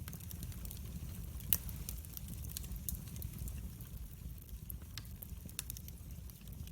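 Wood fire burning in a fireplace: a steady low rumble of the flames with irregular sharp crackles and pops, one louder pop about one and a half seconds in.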